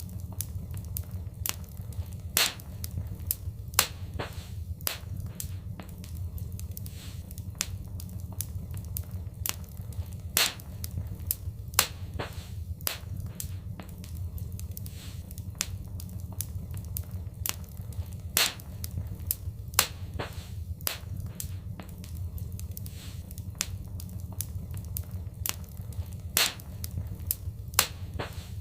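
Wood fire in a fireplace crackling: irregular sharp pops and snaps, a few of them much louder, over a steady low rumble of the flames.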